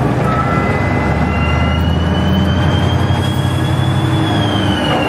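A loud engine running steadily under a rush of noise, with a high whine that slowly rises and then falls away near the end.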